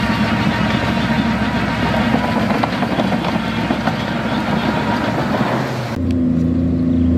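Diesel engine of heavy earthmoving machinery running under load, with a rough rattling clatter. About six seconds in, the sound cuts abruptly to a smoother, steadier engine drone.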